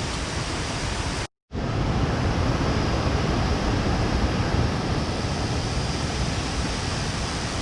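Steady rush of a mountain stream, a dense even noise with no distinct events, cutting out completely for a split second about a second and a half in.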